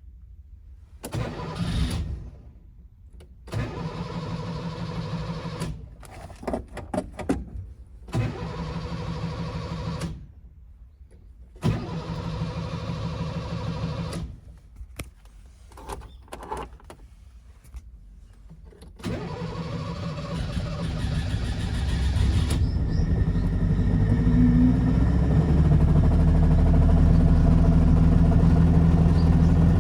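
1970 Mitsubishi Minica 360 GSS's 360 cc twin-carburettor two-stroke twin being cranked in several short bursts that sputter and die. About two-thirds of the way in it catches, builds up and settles into steady running.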